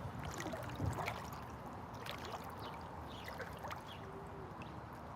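Swimming-pool water lapping and splashing softly, with small drips and trickles.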